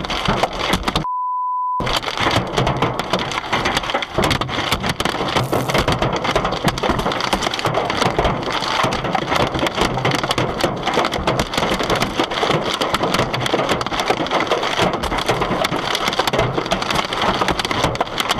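Hailstones pelting a car, a dense, rapid, continuous clatter of hard impacts. About a second in, the sound cuts out for a short steady bleep.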